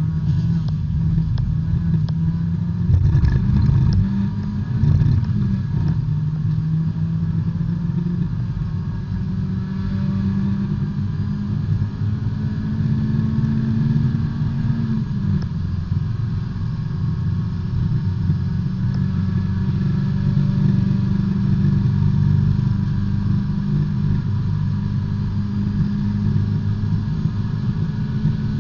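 A B-Spec class race car's small four-cylinder engine is heard from inside the car at racing speed. The pitch climbs for several seconds around the middle, then drops sharply with a shift or a lift off the throttle.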